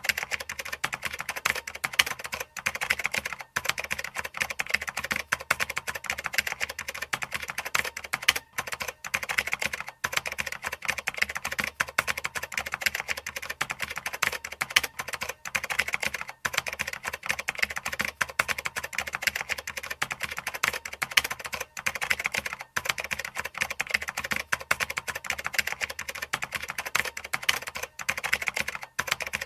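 Continuous fast typing on a computer keyboard: a dense, unbroken run of key clicks, with only a few brief pauses of a fraction of a second.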